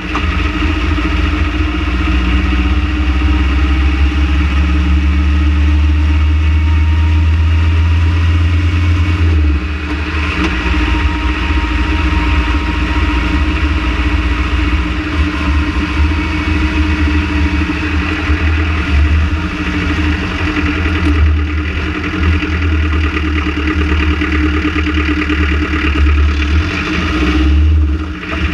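Renault Trafic van engine running steadily at idle, with a heavy low rumble from the vibration the engine is being checked for. The rumble weakens about a third of the way through, then comes and goes.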